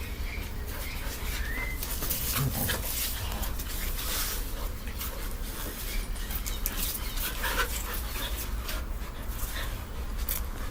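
A dog making small sounds, panting with a brief high whine about two seconds in, over scattered rustling and knocks.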